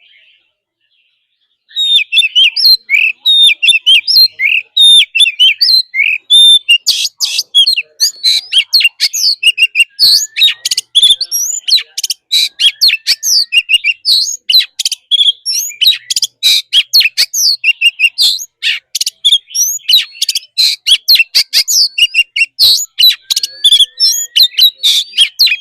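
Oriental magpie-robin singing loudly in the wild-bird style: a fast, unbroken stream of varied high whistles mixed with harsh clicking notes, starting about two seconds in.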